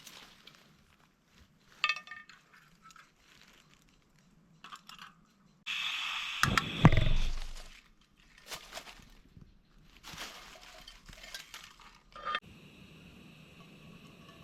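Clinks and knocks of camp cookware and utensils being handled, with a louder clatter about six to seven seconds in. A steady high hum takes over near the end.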